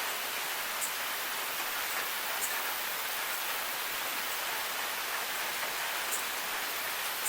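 Steady rain falling, an even hiss with a few brief, sharp high ticks scattered through it.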